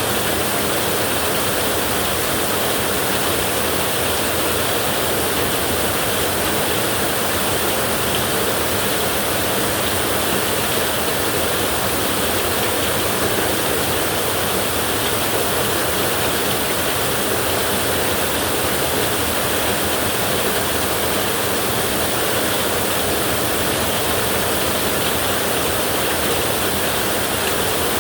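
Heavy rain on a tin roof: a steady, dense hiss of rain.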